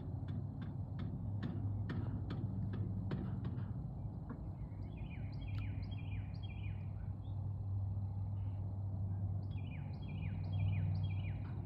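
A songbird singing two bouts of quick, repeated falling notes, over a steady low rumble. In the first few seconds there is a run of sharp ticks, about three a second.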